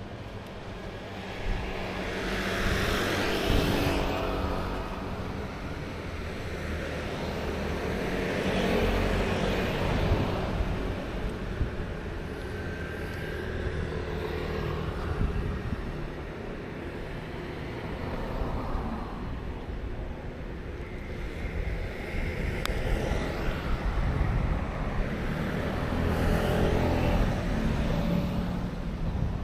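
Street traffic: a steady rumble with vehicles passing one after another, each swelling up and fading away over a few seconds.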